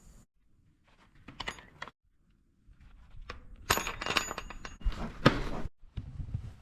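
A few short clinks and knocks, with a brief cluster of metallic clattering about four seconds in and a sharper knock about a second later.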